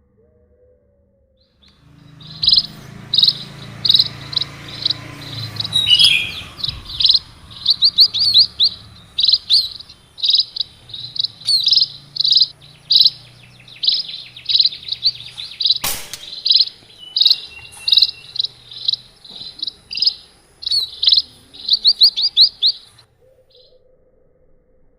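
Small birds chirping in a rapid, continuous series of short high chirps, several a second. A single sharp click comes about two-thirds of the way through.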